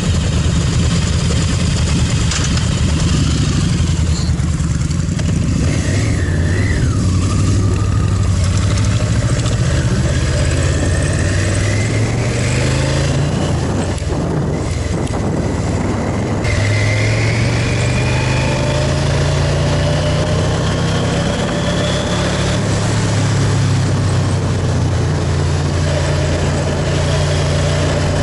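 Motorcycle engine running under way, its pitch climbing, dropping sharply and climbing again as it accelerates through the gears.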